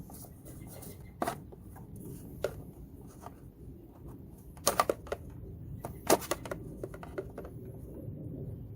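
Irregular clicks and knocks of hand tools and parts being handled during work on a car engine bay. There are two louder clattering clusters, one about halfway through and one a little later.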